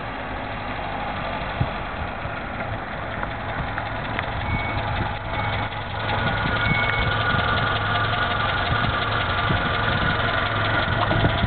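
Classic 124 saloon car's engine running at low revs as the car rolls slowly up and comes to a stop, idling close by; the engine gets louder about six seconds in as the car draws near.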